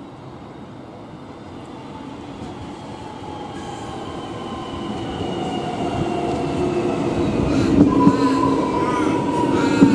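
X'Trapolis electric suburban train approaching and growing steadily louder, its motor whine falling slowly in pitch as it slows. A few sharp wheel thumps come near the end.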